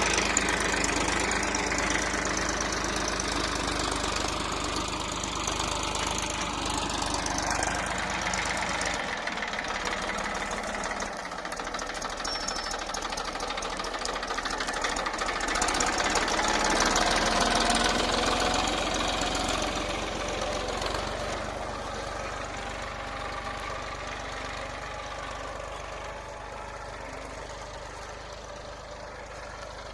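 Massey Ferguson 241 DI tractor's three-cylinder diesel engine running under load with a knocking diesel clatter, its speed rising and falling. It fades steadily over the last ten seconds or so.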